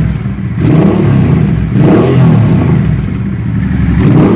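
Honda Hawk GT 650's V-twin engine revved in a few throttle blips, each swelling and dropping back, through a Delkevic shorty can exhaust with its baffle in. The exhaust sounds loud even with the baffle fitted.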